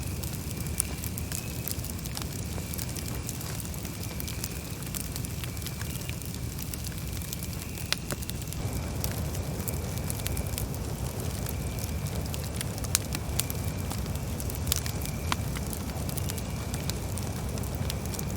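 Campfire burning: a steady low rush of flames with scattered sharp crackles and pops from the burning wood. A faint high tone comes and goes in the background.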